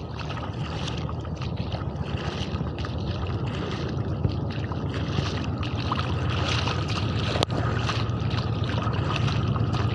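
A motor running steadily with a low, even hum under a continuous rushing wash of noise.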